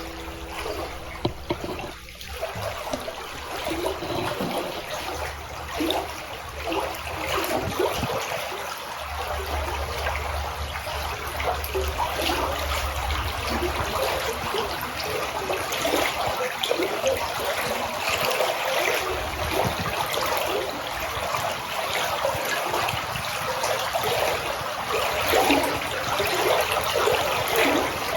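Running water, a small stream trickling and babbling steadily.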